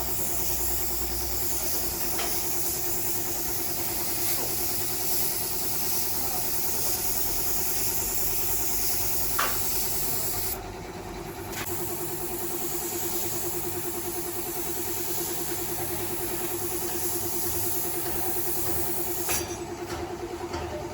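A steady machine hum with a strong hiss of air over it. The hiss cuts out for about a second near the middle and again near the end.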